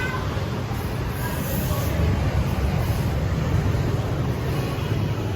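Steady rumble of city street traffic passing.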